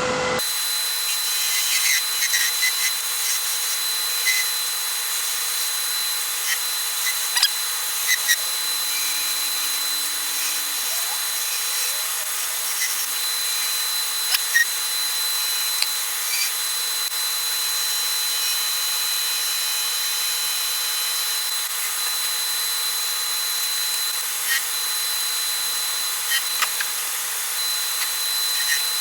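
Wood lathe running while a turning tool cuts a long wooden spindle, giving a steady hiss of shaving with a constant high whine under it and occasional small ticks.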